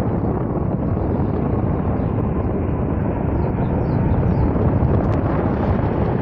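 Aircraft flying over, a steady engine noise, with wind buffeting the microphone.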